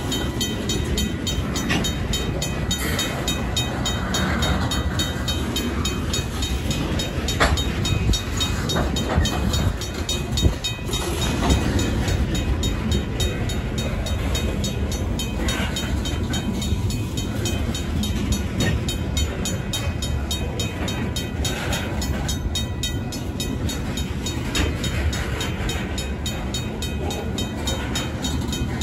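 Covered hopper cars of a freight train rolling through a grade crossing: a steady low rumble of wheels on rail with a few sharp knocks and squeals. Over it the crossing's RACO mechanical bell rings in a fast, even rhythm.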